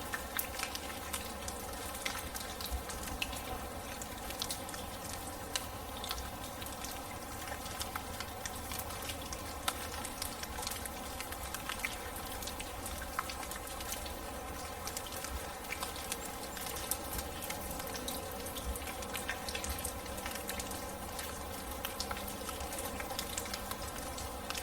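Steady rain falling, a constant hiss with many individual drops pattering and ticking.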